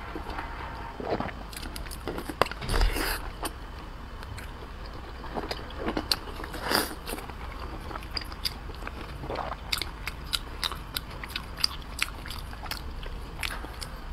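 Close-miked eating of soft, fatty braised pork: wet chewing and biting with smacking mouth sounds, and many short light clicks scattered throughout. Two louder bites come about 3 and 7 seconds in.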